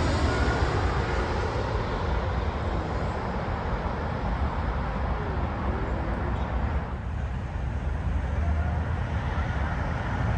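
Jet airliner noise dying away over the first couple of seconds, leaving a steady low rumble.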